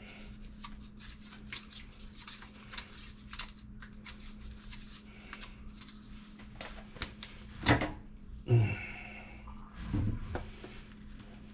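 Small clicks and ticks of plumbing parts being handled, quickly and unevenly, followed by a few louder knocks and a short scrape near the end as the new quarter-turn valves and fittings are worked.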